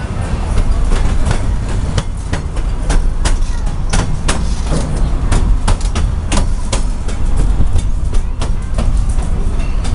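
Passenger car of a narrow-gauge steam train running along the track, heard from inside the open car: a steady low rumble with frequent sharp clicks and rattles, about two or three a second at irregular spacing.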